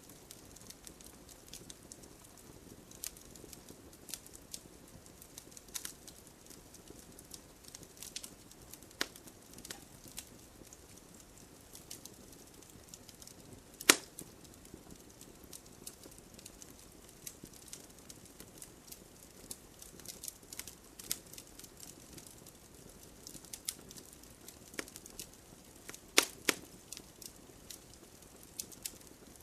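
Wood campfire crackling: irregular sharp pops and snaps over a low steady hiss, with one loud pop about halfway through and a quick cluster of pops near the end.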